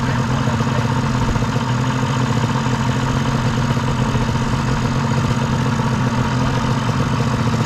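Engine of an off-road machine idling steadily, with no revving.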